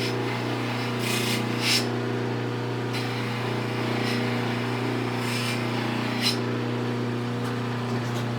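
Bench buffer's electric motor running with a steady hum, while a small metal part's edge is pressed to the buffing wheel in several short hissing bursts.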